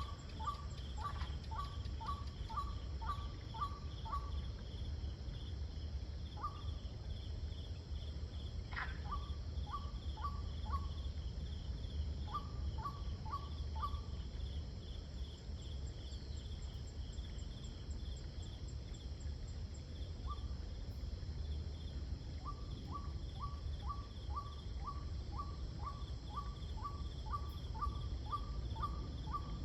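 Evening insect chorus: crickets and other insects chirring in a steady, fast pulse, with a higher thin trill above. Over it an animal gives runs of short, evenly spaced calls, about two or three a second, that break off and start again several times. A low steady rumble sits underneath.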